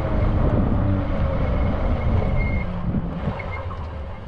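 Steady low wind rumble on the microphone of a moving fat-tire e-bike, with a faint thin high whine about halfway through.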